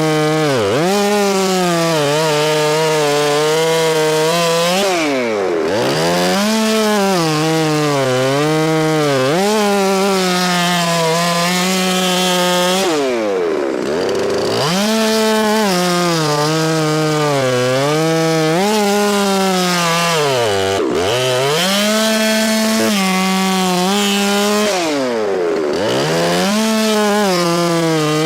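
Petrol chainsaw cutting through a log. The engine's pitch wavers as it works under load, and about five times it drops almost to idle and revs back up.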